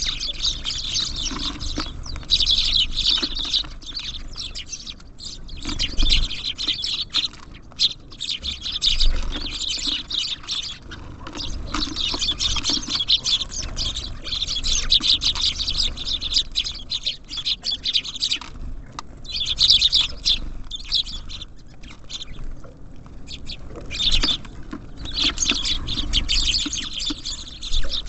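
A flock of small songbirds chirping rapidly and continuously, with a few brief lulls.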